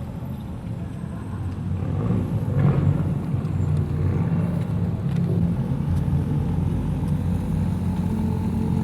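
A custom car's engine and exhaust running at low revs as it rolls slowly past. It gets a little louder over the first few seconds, then holds steady.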